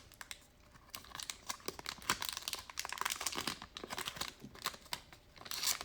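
Glossy trading cards being handled and flipped through: many quick light clicks and rustles of card against card, louder for a moment near the end.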